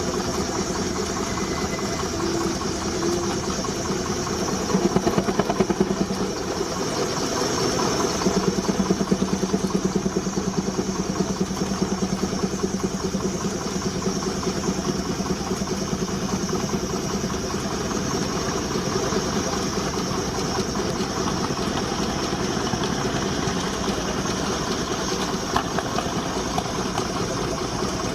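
19-65 Uniflow Baker steam traction engine running steadily under belt, driving a sawmill, with a fast, even run of exhaust beats and machinery hum, briefly louder about five and nine seconds in.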